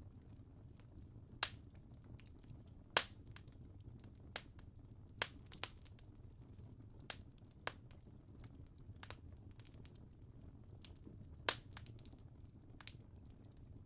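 Wood fire crackling: scattered, irregular sharp pops and snaps over a low, steady rumble, with the sharpest pops about a second and a half in, at three seconds, past five seconds and near the end.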